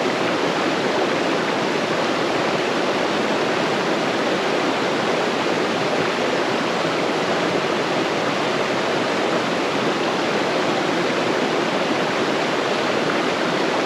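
Mountain stream rushing over rocks, a steady loud rush of water.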